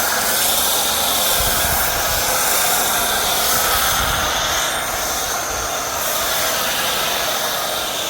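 Pressure washer spraying thick soap foam through a foam cannon: a steady, loud hiss of spray with the machine running underneath.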